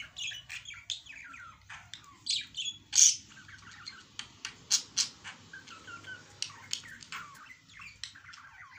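Birds chirping and squawking in a busy run of short, sharp calls, many falling in pitch, with the loudest squawks about three and five seconds in.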